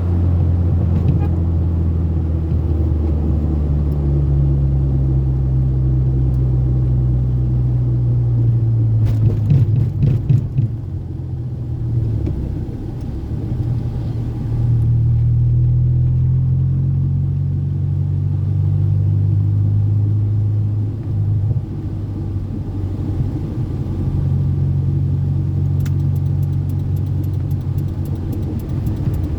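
Toyota Corolla AE80-series four-cylinder engine running under hard acceleration. Its pitch climbs slowly and drops back twice, as at gear changes, then climbs again.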